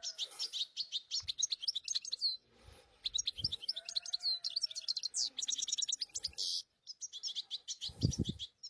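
European goldfinch chicks twittering in quick, high-pitched chirps, with short breaks about a third of the way in and again just before seven seconds. A low thump comes near the end.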